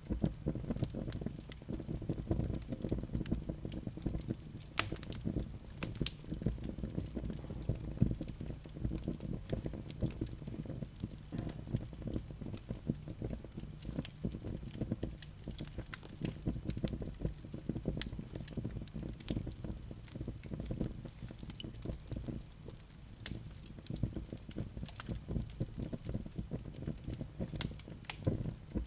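Wood fire burning in a fireplace: a steady low rumble of the flames with frequent irregular crackles and sharp pops of the burning logs.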